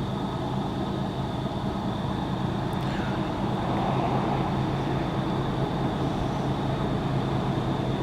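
Train approaching at speed: a steady locomotive engine drone and rumble of the train, growing slightly louder about four seconds in, with a thin steady high tone above it.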